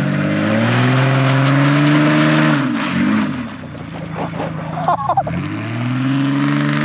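The straight-piped exhaust of a 1993 Ford Ranger with its muffler deleted, the engine revved up and held for a couple of seconds, dropping back near three seconds in, then revved up again.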